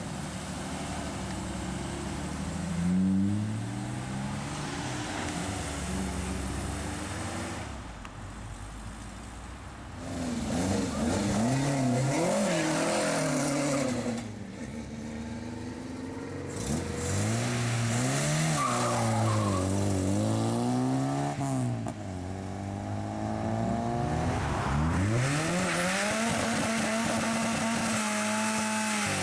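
Several classic Ford cars' engines revving hard and accelerating away one after another, the engine note repeatedly climbing in pitch and dropping back at each gear change.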